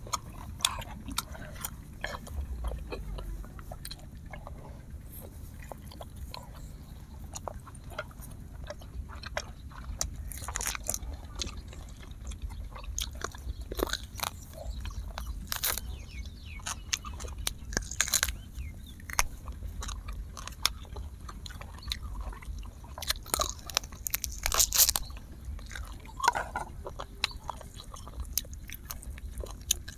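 Two people chewing and biting grilled duck, the skin and meat crackling and crunching as it is torn from the bone with the teeth, in irregular clusters of sharp crackles.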